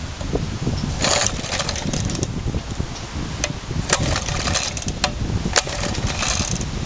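Rebuilt Suffolk engine firing and running on a choked cold start, with loud irregular knocks and rattling. The owner suspects the clutch or shrouding, or a starter missing a bolt.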